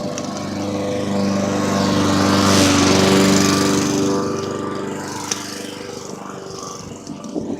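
A car passing close by a bicycle, its engine growing louder to a peak about three seconds in and then fading away.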